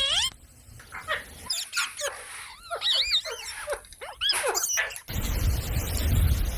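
Parrot making a rapid series of short squeaky, gliding chirps and squawks. About five seconds in, the sound cuts abruptly to a loud low rumbling noise with a faint chirp or two.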